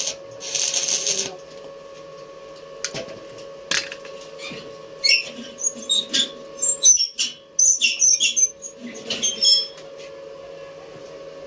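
Sharp metallic clinks and taps, ringing briefly, in a cluster about halfway through, over a steady hum. A short burst of hissing noise comes just after the start.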